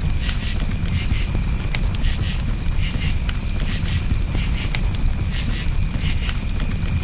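Campfire crackling with scattered sharp pops over a dense low steady sound of burning, while crickets chirp in pulsing, repeating trills.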